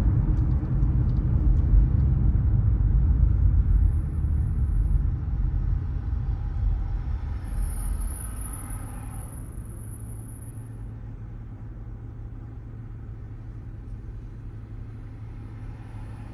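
Car road and engine noise heard from inside the moving car: a heavy low rumble that dies away about nine seconds in, leaving a quieter steady engine hum.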